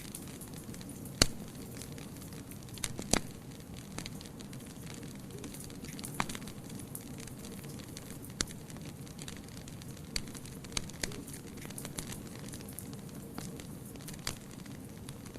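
Wood fire burning in a fireplace: a steady low rumble of flame with irregular sharp crackles and pops, the loudest two early on, then smaller ones every second or two.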